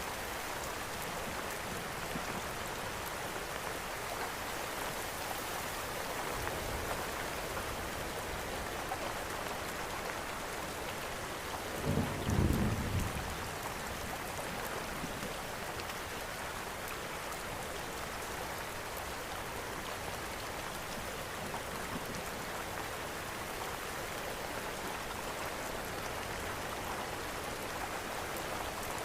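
Steady rain mixed with a crackling fireplace, an even hiss. About twelve seconds in comes a brief low rumble, the loudest moment.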